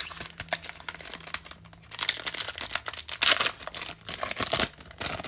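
Foil wrapper of a 2020 Topps Fire trading-card pack being torn open and crinkled by hand: dense, uneven crackling with several louder bursts.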